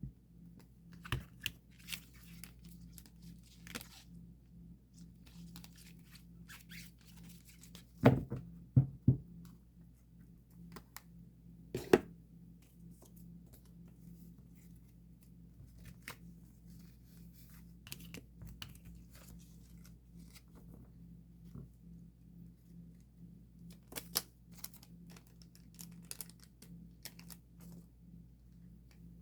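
Plastic sleeves and card packaging crinkling and rustling as photocards are handled and sorted by hand. There are scattered light taps, and a few louder knocks about eight, nine and twelve seconds in and again near the end.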